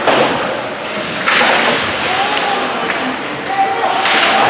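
Ice hockey play: three sudden sharp hits or scrapes on the ice, at the start, after about a second and near the end, each trailing off quickly, with voices calling in the rink.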